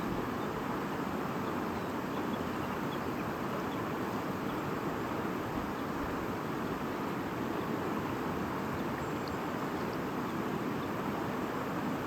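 A river or stream babbling in a steady, unbroken rush of water.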